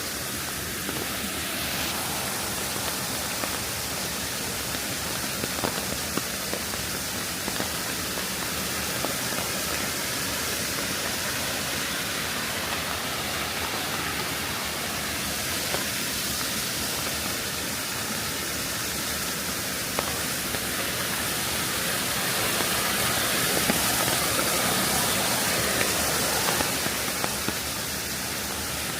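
Steady rain falling, with scattered faint ticks of drops. It swells a little for a few seconds near the end.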